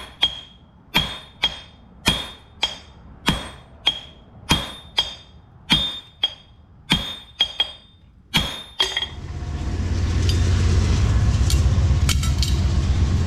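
Hammer blows on hot steel over an anvil while forging an axe head: ringing strikes about every half second, many of them a heavy blow followed quickly by a lighter one. Around nine seconds in the hammering stops, and a loud, steady, low rumbling noise builds up over about a second and continues.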